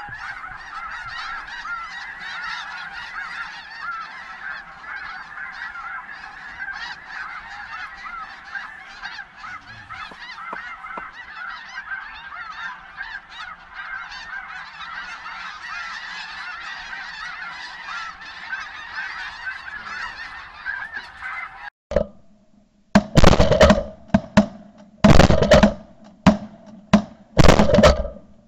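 A large flock of snow geese calling, a dense, unbroken chatter of many overlapping high honks. About 22 seconds in it cuts off, and about five loud, harsh bursts follow close together.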